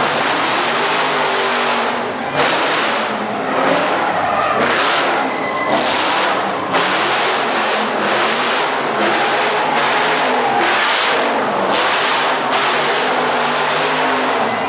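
Car engine revving hard with tyres skidding, swelling and easing in repeated surges about once a second.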